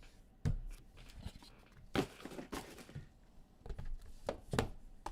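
Card boxes and packaging handled on a table: scattered knocks and taps, with a short rasping tear about two seconds in as packaging is torn or cut open.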